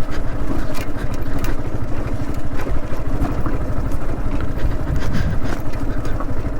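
Yamaha R15 motorcycle's single-cylinder engine running at low speed over a rough off-road track, with scattered sharp knocks.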